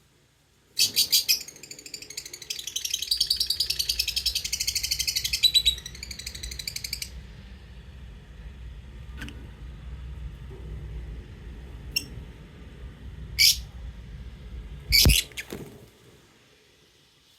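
Lovebirds chattering in a fast, dense run of high chirps for about six seconds, then a few single sharp chirps. A low thump comes with the last chirp.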